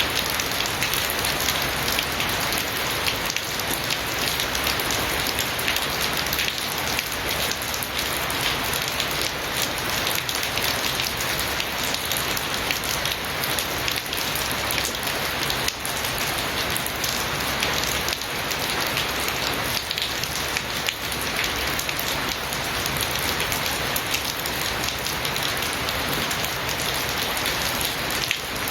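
Steady rain falling: an even hiss dense with the ticks of individual drops striking a surface.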